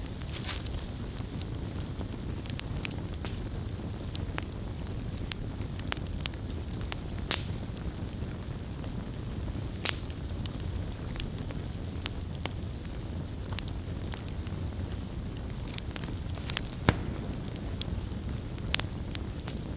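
Wood campfire crackling: irregular sharp pops and snaps, a few louder ones, over a steady low rumble of burning.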